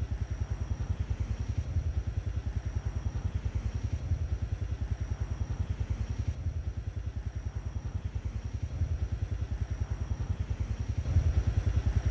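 Royal Enfield Himalayan's single-cylinder engine running while riding, a rapid, even low thump, getting a little louder near the end.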